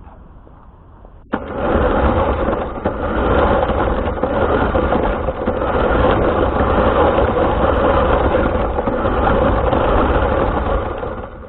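Small RC car motor and drivetrain running as the car drives, a steady buzzing whir that starts suddenly about a second in and falls away shortly before the end.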